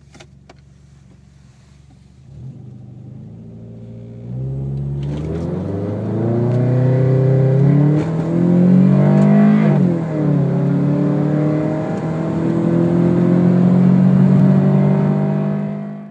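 2002 Nissan Sentra's 1.8-litre QG18DE four-cylinder breathing through a 4-2-1 header and HKS Sport cat-back exhaust, accelerating under hard throttle. The engine note is low and quiet at first, gets much louder about four seconds in, climbs steadily in pitch, drops sharply at a gear change near the middle, then climbs again.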